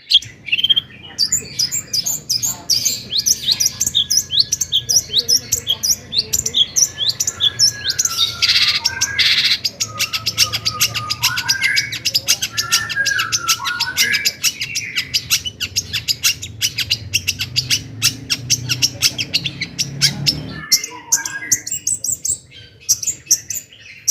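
Long-tailed shrike (cendet) singing a fast, varied song: a dense run of sharp chattering notes and quick high sweeps, with warbling phrases in the middle.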